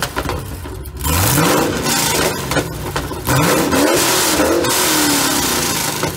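Supercharged 6.2 L V8 of a 2014 Chevrolet Camaro ZL1 running on open headers with the exhaust removed, revved twice. The pitch rises sharply about a second in and again about three seconds in, then falls back toward idle each time.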